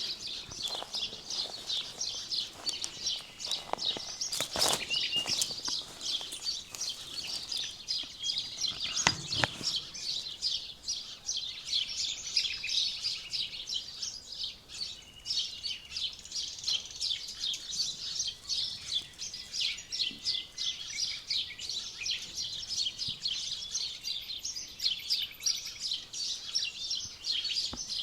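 Dense birdsong: many small birds chirping and singing at once, rapid high chirps running on without a break. A couple of soft knocks sound briefly within it.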